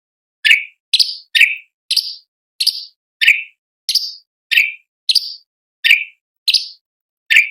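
Cucak cungkok giving a run of short, sharp call notes, about one and a half per second and evenly spaced, the clipped 'tembakan' (shot) notes of its song.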